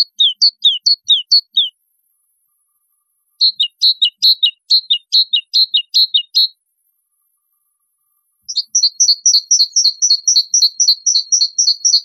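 A small bird singing in three bouts of quick, evenly repeated chirps, each note a short falling whistle, with gaps of about two seconds between bouts. The last bout, starting a little past two-thirds of the way in, is a faster two-pitched trill.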